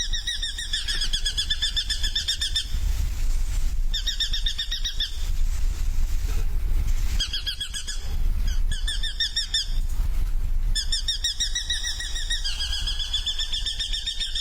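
A small bird chirping in fast runs of repeated high notes, several bouts a few seconds long with short pauses between them. A low rumble sits underneath.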